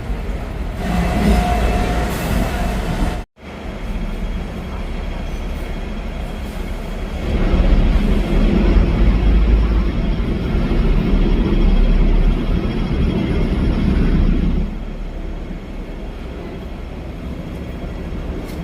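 Hong Kong double-decker electric tram running along its rails: a steady rumble of wheels and running gear that grows louder for several seconds in the middle, then eases. The sound cuts out for an instant about three seconds in.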